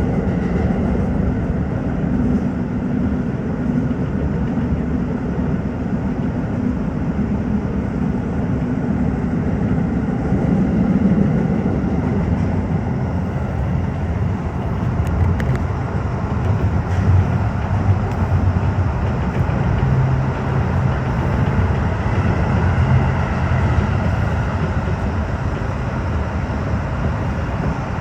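Tokyo Metro 15000 series electric train running, with a steady rumble and a low hum that drops lower about halfway through.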